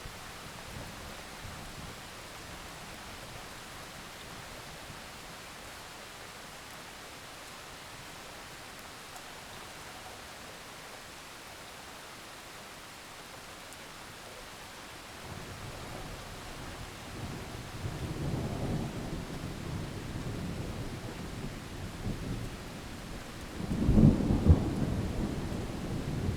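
Heavy rain hissing steadily, with thunder rumbling in about two-thirds of the way through and building to a loud crack near the end.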